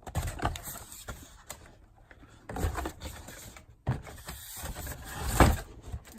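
Hard plastic toy truck being handled and turned over: irregular clattering and rubbing of plastic parts, loudest a little after five seconds in.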